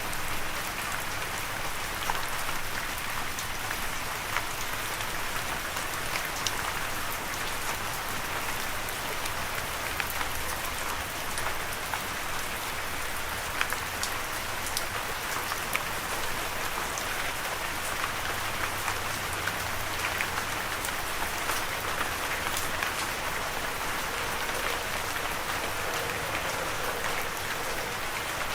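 Steady rain falling on a surface: an even hiss with scattered individual drops ticking.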